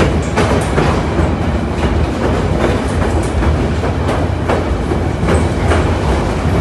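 White Pass & Yukon Route narrow-gauge train running along the track, a steady rumble with irregular clacks from the wheels over the rails.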